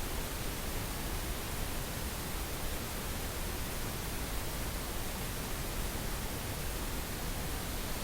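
Steady synthetic pink noise: an even, unbroken hiss with more weight in the low end, from a sleep sound-therapy track.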